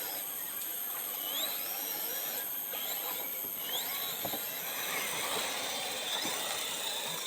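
RC rock crawler's electric motor and gear drivetrain whining as it crawls, the pitch rising briefly twice as the throttle is blipped.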